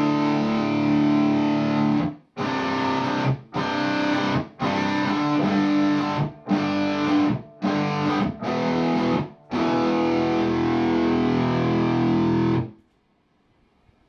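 Distorted electric guitar chords played through an Orange Crush Pro 120 amplifier and a 2x12 cabinet with Vintage 30 speakers: a held chord, a string of short stabbed chords with brief breaks, then a long held chord cut off sharply near the end. The amp has just had its preamp board's solder joints reflowed to cure a noisy dirty channel.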